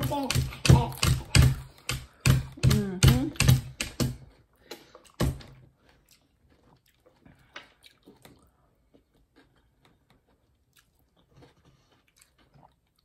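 Close-miked chewing of a mouthful of lettuce and burrito-bowl food: loud, dense wet crunching with a voice mixed in over the first four seconds or so. After that come quieter, sparse chewing clicks and small taps of a metal fork in a takeout bowl.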